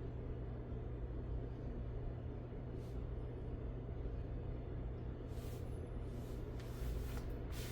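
Steady low motor hum, with a few short scraping strokes in the second half as the metal base of a diecast toy truck is shaved down.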